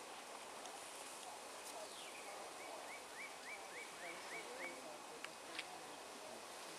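Quiet wetland ambience with a faint steady hiss, a bird calling a quick run of about eight evenly spaced chirps midway, and two sharp clicks near the end.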